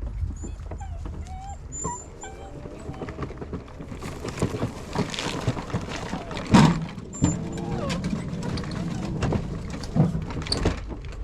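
A dog whining in short whimpers that glide up and down in pitch, over rustling, with a loud knock about six and a half seconds in.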